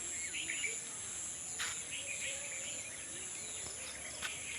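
Outdoor countryside ambience: insects keep up a steady high-pitched trill while birds chirp here and there. Two short clicks can be heard, one a little past a second in and one near the end.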